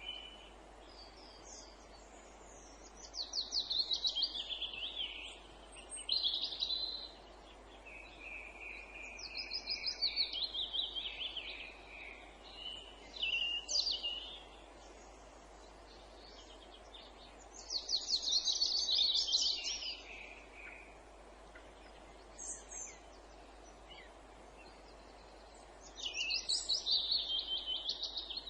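Songbirds singing in a wood: short, rapid trilled phrases, many falling in pitch, repeated every few seconds over a steady faint background hiss.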